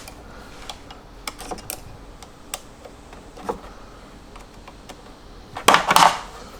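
Scattered light clicks and taps of hands handling a small backup camera and its plastic mounting bracket, with a louder scraping rustle near the end.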